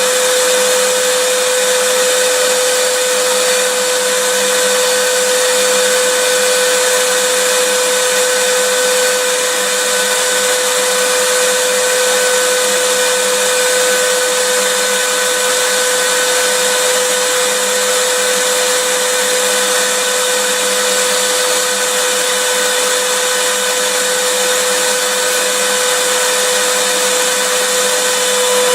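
Vacuum cleaner running steadily: an even rushing hiss with a constant whine underneath.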